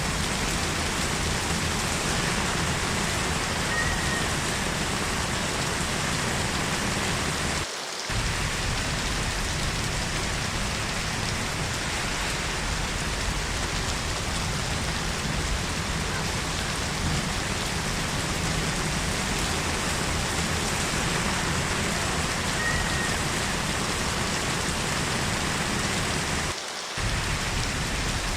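Heavy rain falling steadily, a dense even hiss, which dips briefly twice, about eight seconds in and near the end.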